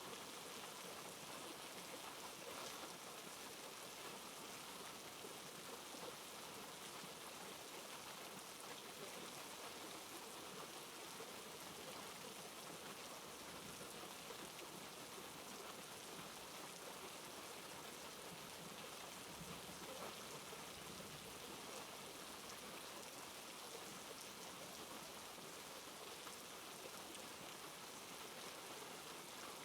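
Steady, soft rain falling, an even hiss with faint drop patter.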